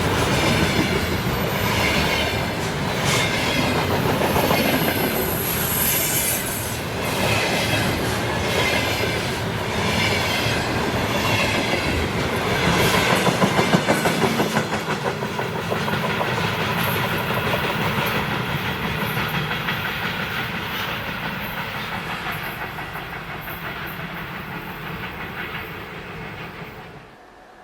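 Train wagons rolling past close by, wheels clattering over rail joints in a steady rhythm. The sound fades over the last several seconds, then cuts off suddenly near the end.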